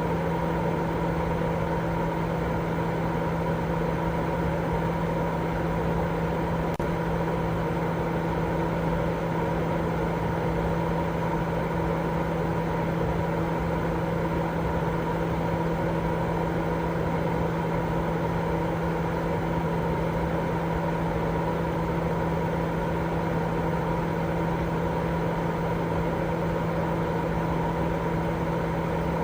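Continuous sleep-aid noise for babies: a steady, unchanging hiss with a low hum and a few constant tones, most of its weight in the low and middle range rather than the highs.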